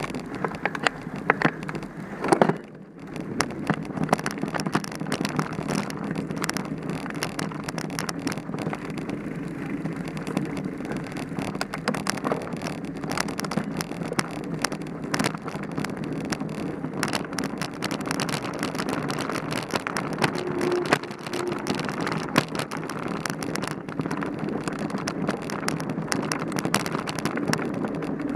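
Mountain bike ridden over a rough dirt trail: a steady rush of tyre and wind noise with constant rattling clicks and knocks from the bike, and a sharper jolt about two seconds in.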